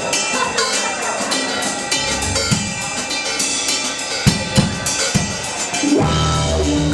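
Live rock drum kit playing a song intro: steady cymbal strokes with kick and snare hits. Low sustained bass notes come in with the band about six seconds in.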